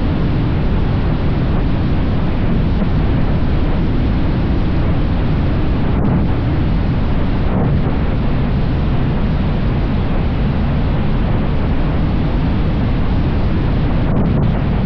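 Steady wind rushing over the microphone of a motorcycle at speed, with the ride's engine and road noise blended in low underneath.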